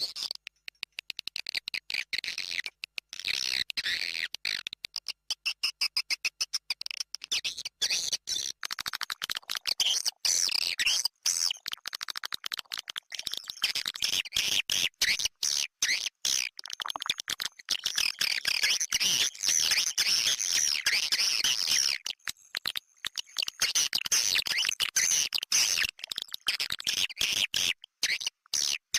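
Swiftlets twittering: a dense, fast chatter of high chirps and clicks with brief breaks. It is a swiftlet calling (lure) track of the kind played to draw swiftlets into nesting houses.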